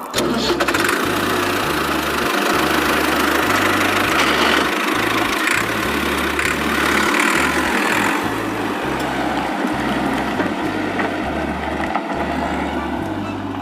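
A tractor engine runs steadily, with a low bass line stepping from note to note underneath.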